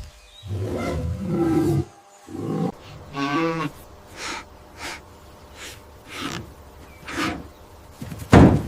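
A large animal calling: a long low call, a second shorter call, then a series of short breathy grunts, the last one the loudest near the end.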